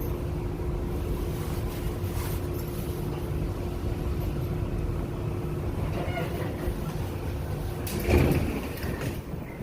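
New York City subway train at a station: a steady low rumble with a constant hum, then a single loud thump about eight seconds in, after which the hum stops.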